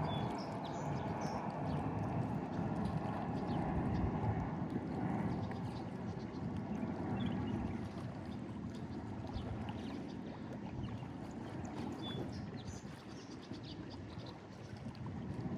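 Lake Erie waves washing and splashing against a breakwall: a steady rushing that swells and eases and grows a little quieter in the second half.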